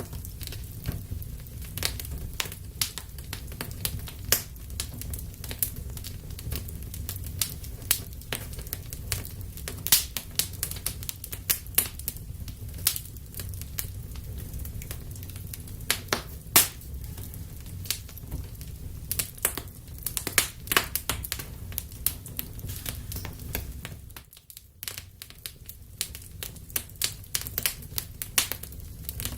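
Wood fire burning in a fireplace: irregular sharp crackles and pops over a steady low rumble of the flames, which dips out for about a second near the end.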